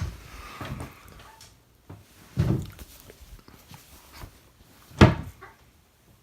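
Kitchen cupboard doors being opened and shut, with two louder thuds about two and a half and five seconds in, the second the loudest.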